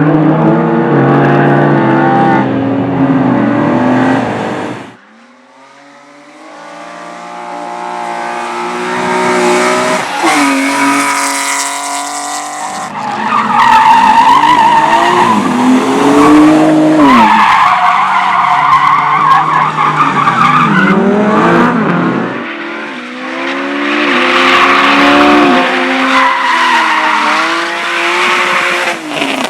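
Competition cars driven hard through a slalom course: engines revving up and down sharply as they accelerate and brake between the cones, with tyres squealing and skidding. Abrupt changes about five seconds in and again near the end mark a switch from one car's run to another.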